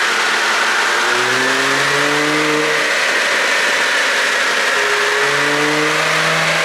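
Porsche 971 Panamera 4's twin-turbo V6 revving up twice, each rise in pitch lasting a second or two, under a loud steady hiss.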